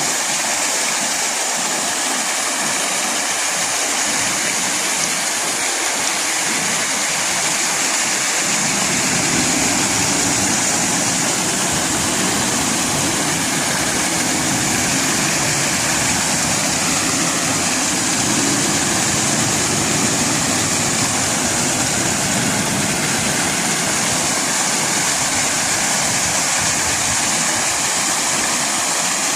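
Steady rushing of running water. About eight seconds in, a low engine rumble joins underneath and stays.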